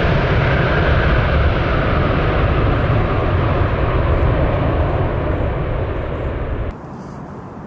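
Airliner's engines heard close by, a loud, steady rumble that slowly fades, then cuts off abruptly about seven seconds in, leaving quieter outdoor background.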